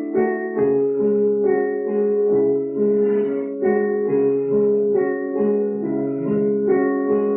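Piano playing sustained chords, a new chord struck roughly once a second, in the instrumental opening of a song before the vocals come in.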